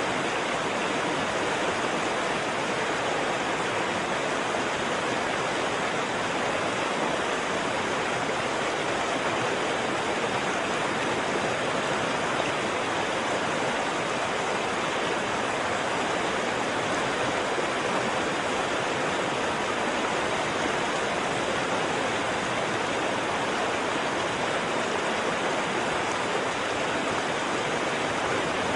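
Waterfall: water falling and rushing in a steady, unbroken hiss with no changes or separate splashes.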